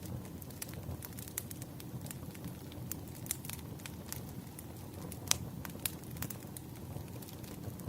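Wood fire burning: a steady low hiss of the flames with frequent sharp crackles and pops of the burning logs, the loudest pop about five seconds in.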